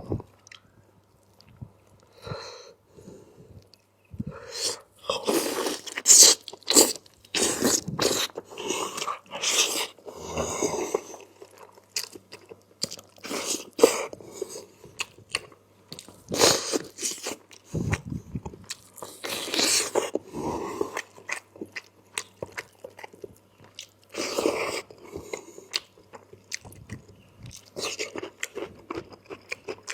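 Close-miked chewing and biting of chicken curry with rice, in irregular bursts with occasional crunchy bites.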